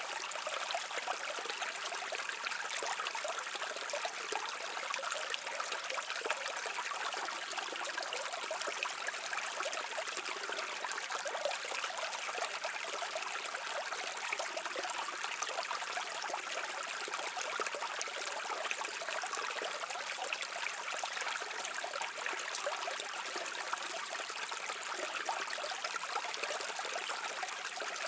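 A brook running and babbling steadily over stones, an even, bright rush of water with a fine trickling texture.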